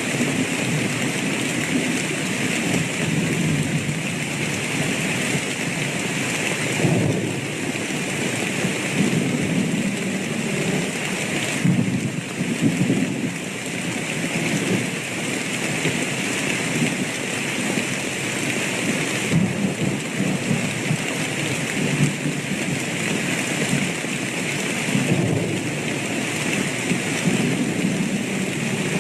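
Thunderstorm: steady heavy rain with low rolls of thunder rumbling in several times.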